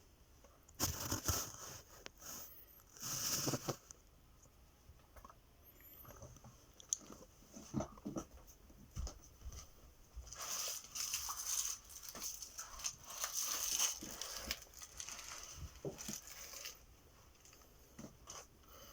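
Fancy rat biting into and chewing watermelon: bursts of crunchy nibbling with small clicks between them. The bursts are strongest about a second in, around three seconds, and through a long stretch from about ten to seventeen seconds.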